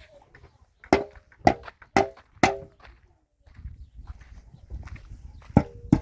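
Metallic knocks: four sharp strikes about half a second apart, each ringing briefly, then a pause and two more near the end.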